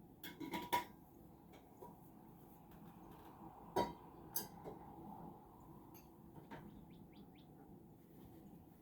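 Faint kitchen sounds: a few sharp clinks of dishes or utensils, the loudest about half a second in and just under four seconds in. Small birds give several quick, high chirps about seven seconds in.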